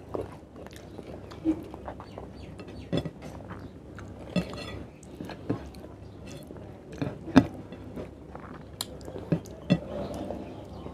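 Close mouth sounds of a man eating chicken curry and rice by hand: chewing, with irregular sharp clicks every second or so.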